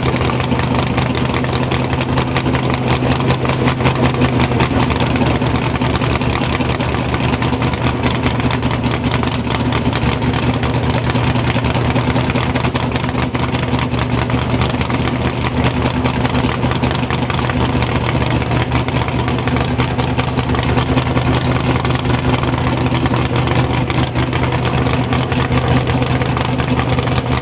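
Malibu drag car's engine idling steadily and loudly, with no revving.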